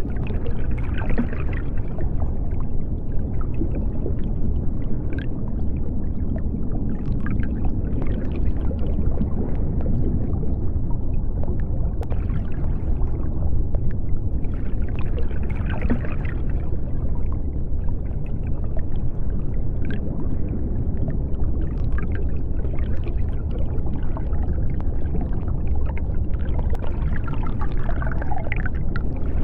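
Underwater ambience: a steady deep rumble with scattered bubbling and small crackles that come and go every few seconds.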